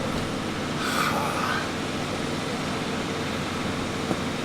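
Steady low mechanical rumble and hum, with a faint voice briefly about a second in.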